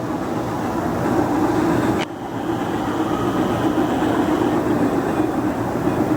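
Aristocraft 2-8-2 Mikado live steam locomotive running on the track, giving a steady mix of steam and running noise. A sharp click comes about two seconds in.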